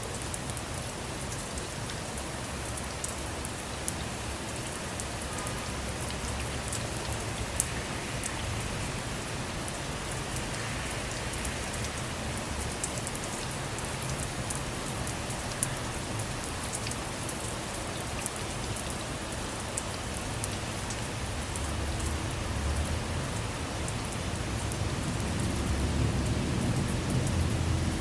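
Steady rain falling on a car, with single drops tapping sharply now and then. A low rumble of distant thunder builds near the end.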